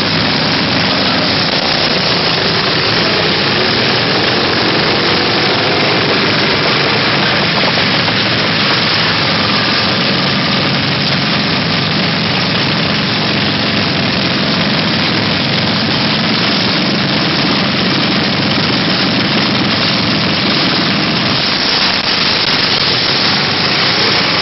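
Small mini bike engines running loud and steady, with a faint rise in pitch about six seconds in.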